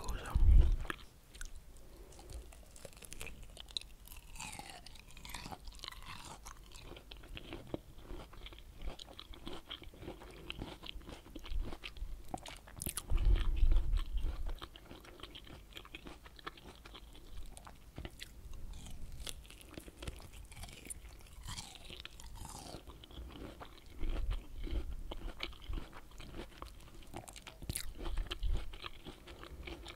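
Close-miked chewing and biting of pomelo segments: juicy crunches and wet mouth clicks, with louder bites about half a second in, around halfway through, and twice near the end.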